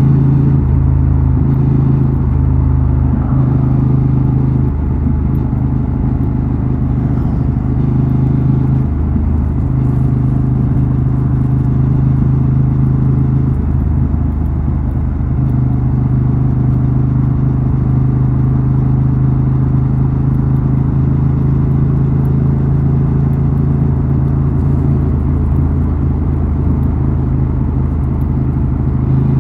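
Honda Transalp XL750's 755 cc parallel-twin engine and exhaust running steadily under way at a nearly constant pitch, with a few brief dips in the note during the first half.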